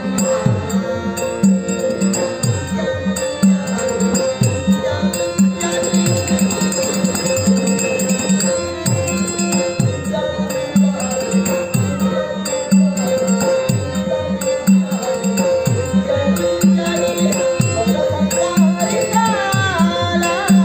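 Instrumental interlude of Dashavatar folk-theatre accompaniment: steady held harmonium tones over repeated drum strokes that drop in pitch, with jingling percussion. Near the end a wavering melodic line comes in above them.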